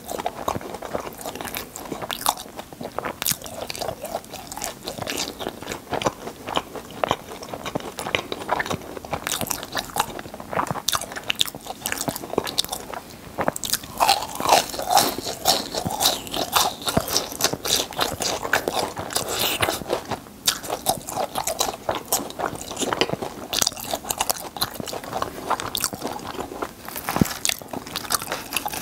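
Close-miked biting and chewing of crunchy fried churros: a dense, irregular run of crisp crackling crunches.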